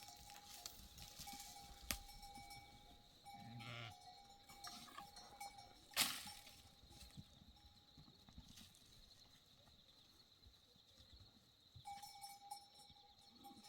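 Faint sounds of goats and sheep, with a short call about three and a half seconds in and a single sharp knock about six seconds in.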